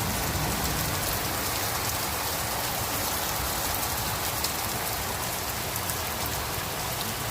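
Heavy downpour in a thunderstorm: a steady, dense hiss of rain pouring down and splashing on surfaces, with fine ticks of individual drops.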